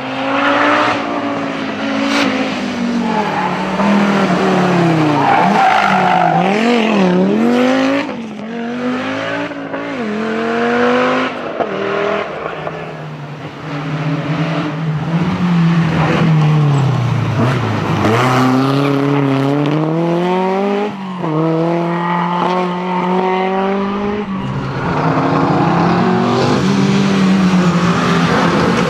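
Historic rally car's engine revving hard through the gears, its pitch climbing, dropping at each change or lift and climbing again, several times over.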